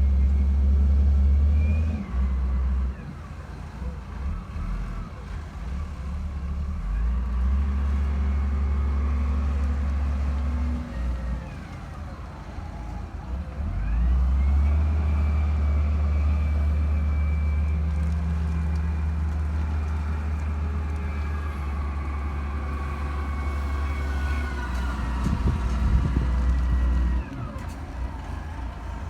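Backhoe loader working: its engine runs with a deep rumble that swells and drops in stages as the load changes. Over it a fainter whine glides up and down.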